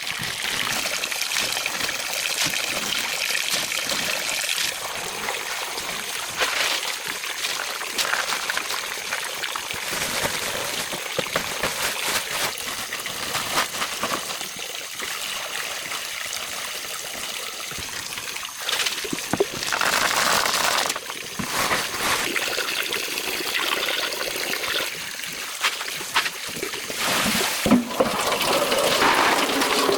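Water trickling and running, a steady splashing hiss that shifts in strength a few times.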